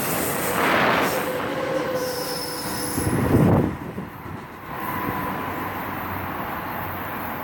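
A train rolling past, a steady rumble of wheels on rail with short high-pitched squeals from the steel wheels, a louder surge about three and a half seconds in.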